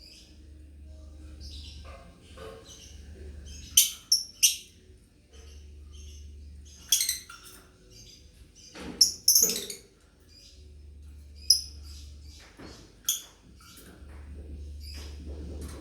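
Lovebirds chirping: scattered short, shrill chirps at irregular intervals, several of them close together around four seconds in and again around nine seconds.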